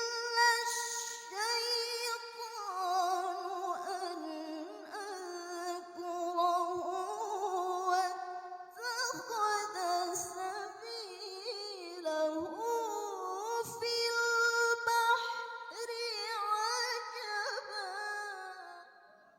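Female Qur'an reciter's voice in melodic tilawah, drawing one phrase out into long held notes with quick wavering ornaments and gliding pitch changes. The voice stops just before the end.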